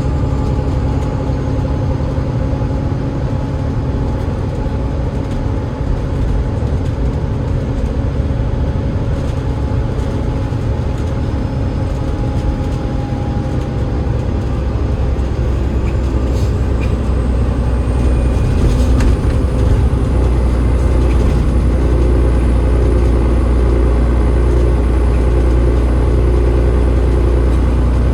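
Double-decker bus's Cummins ISL8.9 straight-six diesel and ZF EcoLife automatic gearbox running under way, a steady low drone. A faint high whine rises about halfway through, then holds steady as the engine note grows a little louder.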